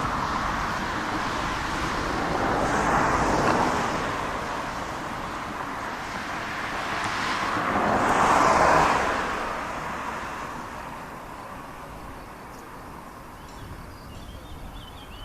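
Noise of passing vehicles that swells and fades twice, once about three seconds in and louder around eight seconds, then dies down to a low background hiss.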